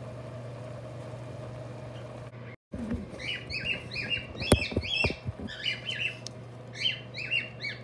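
A steady low hum that cuts off about two and a half seconds in. Then a bird chirps in quick, repeated short notes, with one sharp click about halfway through.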